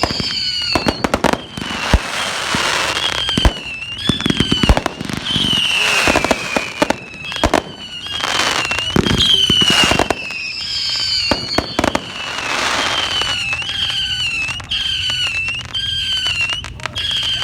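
Fireworks going off: sharp bangs and firecracker reports with swells of hissing crackle. Under them runs a high wavering whistle that rises and falls about once a second.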